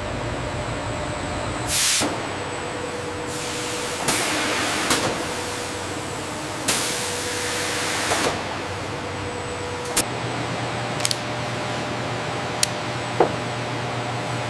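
Steady machinery hum with several hissing bursts in the first half, some lasting a second or more, then a few sharp clicks in the second half.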